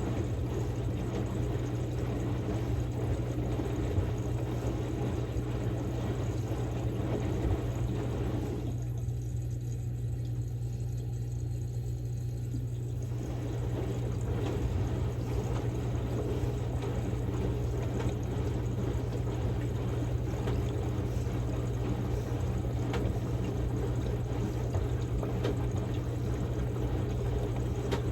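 Samsung Grande washing machine running its quick-wash course: water splashing and running in the drum over a steady low motor hum. The splashing stops for about four seconds partway through, then resumes.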